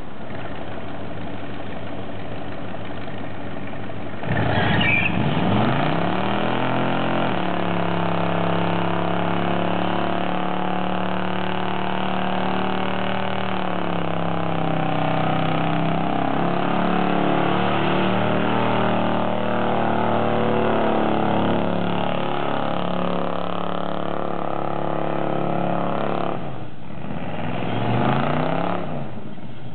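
A 454 big-block V8 in a 1973 Chevy truck idles, then is revved hard about four seconds in and held at high revs through a doughnut burnout, the pitch wavering as the wheels spin. Near the end the revs drop briefly, then the engine is revved up once more.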